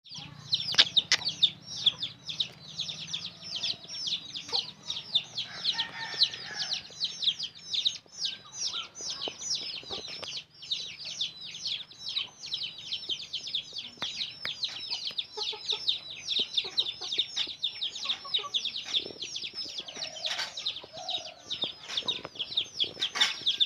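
Parrot chicks calling without pause: short, high, downward-sliding calls repeated several times a second.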